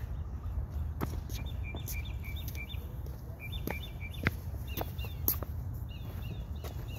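A small bird chirping in short, quick series over a low steady rumble, with a few sharp clicks, the loudest about four and five seconds in.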